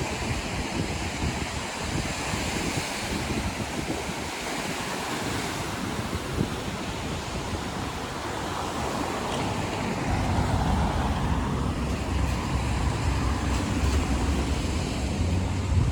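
Windy, rainy lakeshore ambience: choppy lake water washing against the shore and passing traffic on a wet road. Wind buffets the microphone in a low rumble that grows stronger about ten seconds in.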